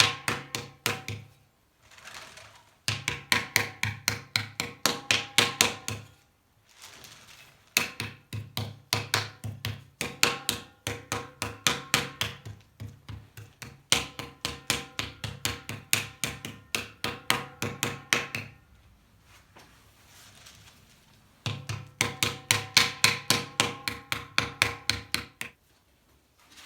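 Wooden paddle beating clay in paddle-and-anvil pottery: quick, even strokes about three or four a second, in several runs broken by short pauses.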